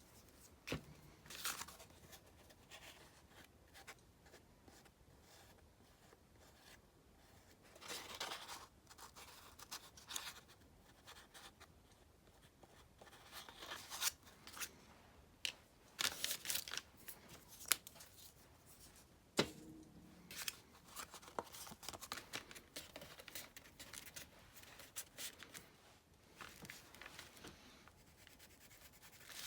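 Paper and craft materials being handled on a journal page: scattered short rustles with a few sharp taps, the loudest about two-thirds of the way through.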